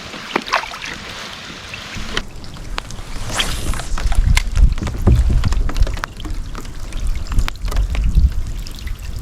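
Rain pattering on the kayak and water with scattered drop clicks. From about two seconds in, water sloshes and splashes against the kayak hull with heavy low rumbling, and there is a brief splash about three and a half seconds in.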